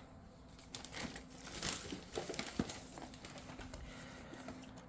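Faint crinkling and rustling of packaging being handled, with a few small clicks and taps.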